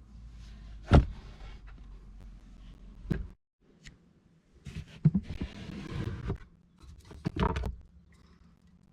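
A few sharp knocks and thuds with rustling in between, as gear is handled inside a car's boot and cabin.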